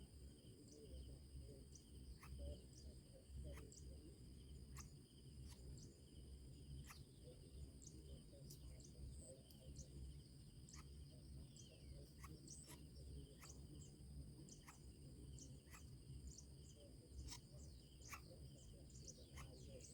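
Faint, steady insect chorus, crickets trilling at several high pitches at once, with scattered sharp clicks and a low rumble underneath.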